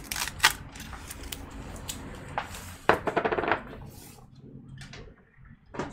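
Small hard objects being handled and set down: a scatter of clicks and clatters, busiest in a short rattle about three seconds in, with another click near the end.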